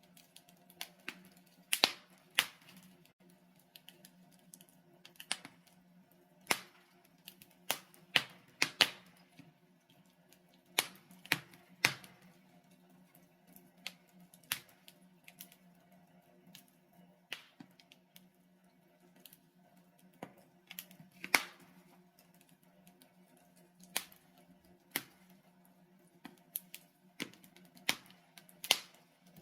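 Logs burning in a fireplace, crackling with irregular sharp pops and snaps at uneven intervals. A faint steady low hum lies underneath.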